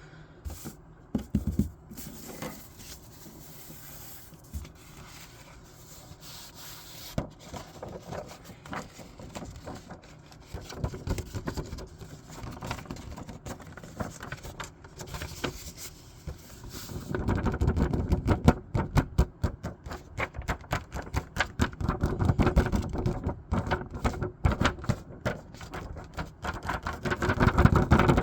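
Paper being handled and cut with scissors: scattered light rustles and snips at first, then from about halfway a dense run of rapid crisp snipping and crinkling.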